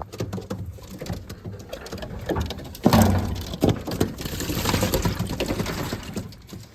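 Racing pigeons splashing in a water bath: irregular splashing and pattering water, loudest about three seconds in.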